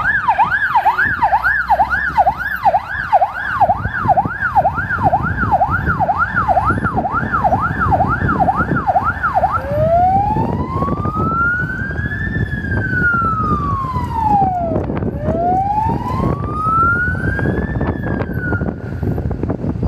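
Emergency vehicle siren sounding loud and close in a fast up-and-down yelp, about two and a half sweeps a second, then switching just under halfway through to a slow wail that rises and falls twice. A low vehicle rumble runs underneath.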